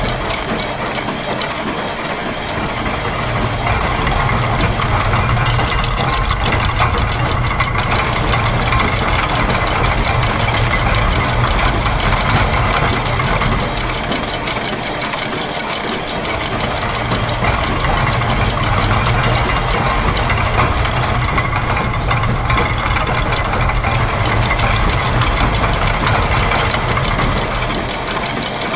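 Layered loops of factory machine sounds (gears, press, clockwork, ratchet and sewing machine) running together as a dense, steady mechanical clatter over a low hum, with rapid fine ticking coming in for a few seconds twice.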